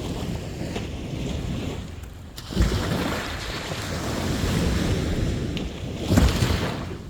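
Sea waves breaking on the shore, with two louder crashes, one about two and a half seconds in and one about six seconds in, over a steady wash of surf and wind rumble on the microphone.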